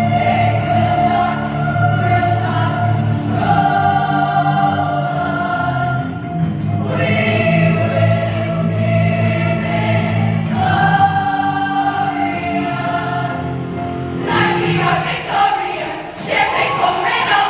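Women's show choir singing held chords over band accompaniment. Near the end the song breaks off and the audience starts cheering.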